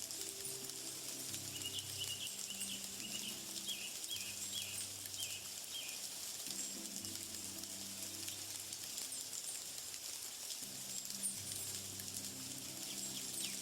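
Nature ambience: a steady high hiss with a run of short bird chirps in the first half, over soft low sustained tones.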